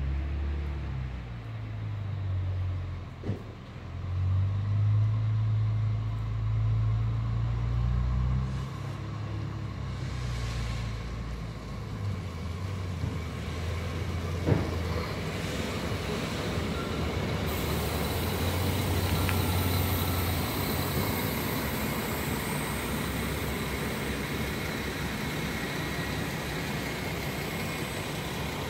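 A train coming into a station: a low drive drone that shifts in pitch, with the rumble of rolling wheels and two sharp clicks, giving way in the last third to a steady broad rolling rumble.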